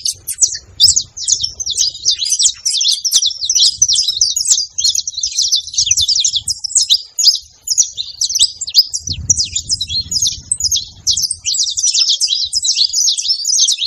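A flock of saffron finches chirping and calling all at once, many quick overlapping high chirps with no pause.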